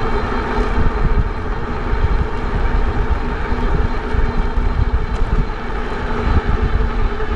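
Wind buffeting the microphone of a moving electric bike, with a steady whine from the e-bike's motor running underneath.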